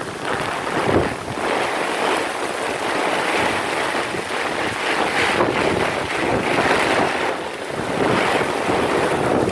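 Wind buffeting the microphone in gusts over surf breaking on the beach in heavy rain.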